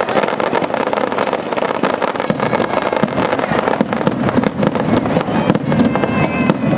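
Fireworks going off: a dense run of sharp pops and crackles in quick succession, with no let-up.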